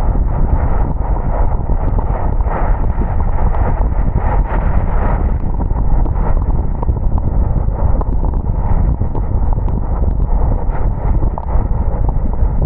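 A car driving on a rain-wet road: a loud, steady rumble of tyres, road and wind, with a few faint ticks.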